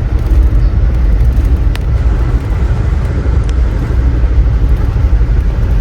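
Steady low rumble of a moving Amtrak passenger train heard from inside a coach car, with a couple of faint ticks.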